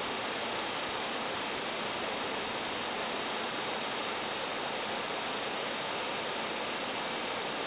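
Steady, even hiss-like rushing noise of a 313 series electric train standing at a station platform, with no distinct events.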